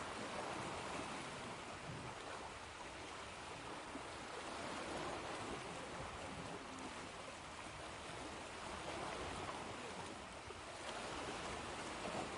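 Ocean waves washing in: a steady rush of surf that swells and eases gently every few seconds.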